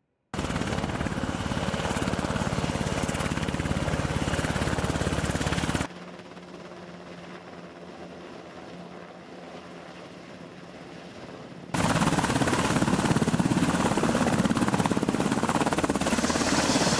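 Navy MH-60 Seahawk helicopter's rotors and turbine engines running on a carrier flight deck, cut together from separate shots. It is loud for the first six seconds or so, then quieter with a steady hum, then loud again from about twelve seconds in as it hovers low and settles onto the deck close by.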